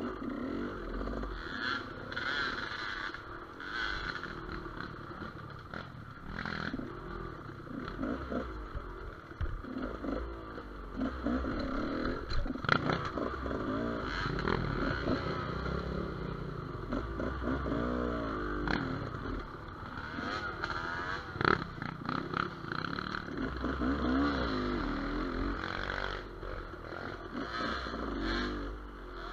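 Gas Gas EC200 two-stroke enduro motorcycle engine revving up and down over and over as it is ridden over rough forest ground, with clattering knocks and scrapes from the bike; the sharpest knocks come about halfway through and about two-thirds of the way in.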